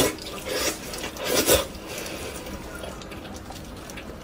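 Wet, close-up mouth sounds of biting, sucking and chewing soft, tender braised pork skin and meat. The loudest smacking comes in the first second and a half, then the chewing goes on more quietly.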